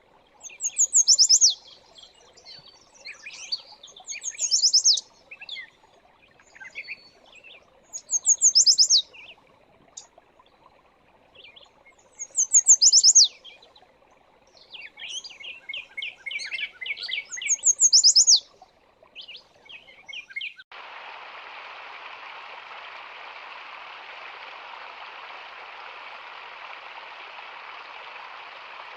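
Songbirds singing: a loud phrase of quick, falling, trilled notes comes back about every four seconds, with softer chirps between, over a faint low hiss. About two-thirds of the way through, this cuts off suddenly and gives way to a steady rush of running water.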